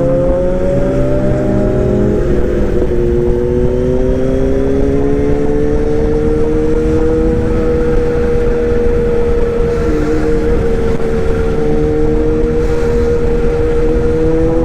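An engine running steadily, its pitch drifting slowly up and down, over a low rumble.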